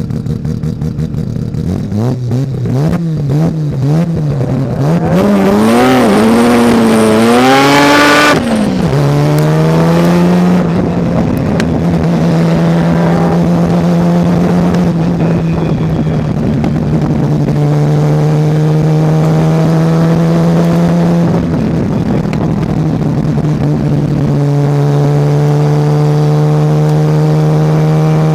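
Mazda RX-7 race car's rotary engine under load. The revs rise and fall unevenly for the first several seconds, then settle and hold a steady pitch for the rest.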